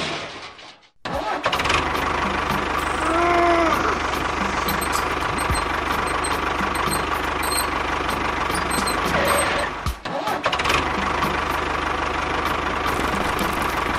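Small engine running steadily with an even low throb, cut off briefly about a second in and again around ten seconds in.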